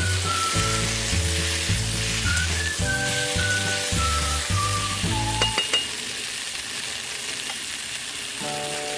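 Brinjal and tomato pieces sizzling as they fry in a wok, stirred with a spatula, with background music over them that stops a little past halfway. There are a few sharp clinks just before the music stops, and the sizzling carries on alone.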